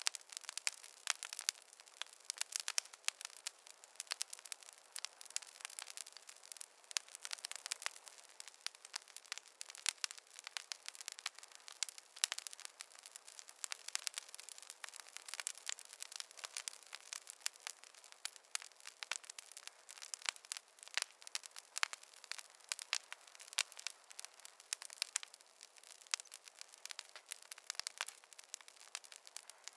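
Campfire crackling: a steady stream of irregular snaps and pops over a soft hiss.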